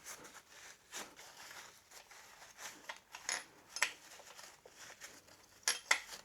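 Small metal parts and hand tools clinking and tapping in irregular, sharp clicks, with a quick pair of louder clicks near the end.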